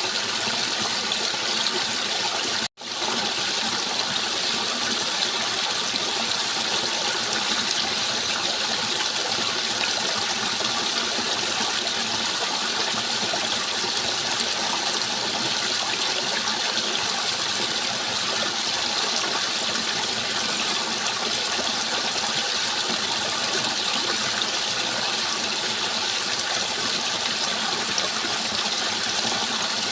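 Steady rush of flowing water, an even hiss with no rhythm. It cuts out completely for an instant about three seconds in, then resumes unchanged.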